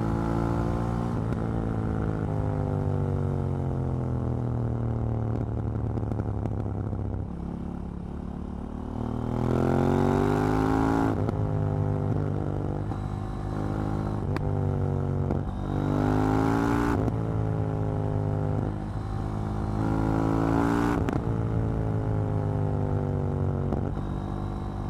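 KTM 790 Duke's parallel-twin engine under way: revs falling on a closed throttle for the first several seconds, then three hard accelerations, about ten, sixteen and twenty seconds in, each ending in a sudden drop at the upshift. A single sharp click sounds about fourteen seconds in.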